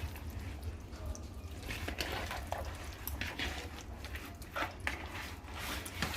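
Intermittent wet dripping and squelching sounds of kitchen work, scattered short splashes over a steady low hum.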